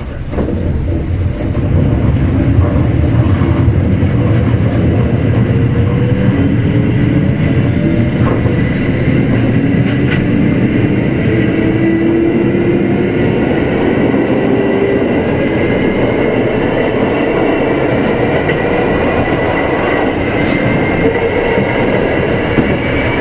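Kintetsu 2610 series motor car Mo 2616 accelerating away from a station: the traction motor and gear whine rises steadily in pitch over a loud rumble of wheels on rail, with a few sharp rail-joint clicks.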